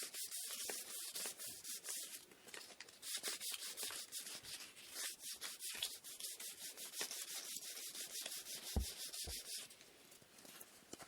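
Sandpaper rubbing on a wooden inkle loom part in quick back-and-forth strokes. Two dull knocks come near the end, and the sanding stops shortly after.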